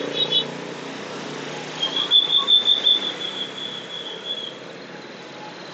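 A high, warbling squeal starting about two seconds in and lasting about two and a half seconds, over a low steady hum of traffic.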